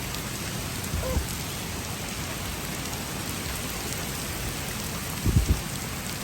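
Steady hiss of freezing rain mixed with small hail falling. There are two short low thumps, about a second in and again near the end.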